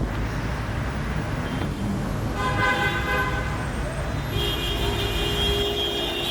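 Car horns honking in stalled traffic over a steady rumble of road noise. One horn sounds for about a second, a couple of seconds in, and a longer horn blast starts just past four seconds and runs on.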